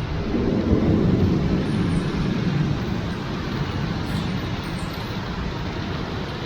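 Thunder rolling low, loudest in the first couple of seconds and then fading away, over a steady hiss of heavy rain.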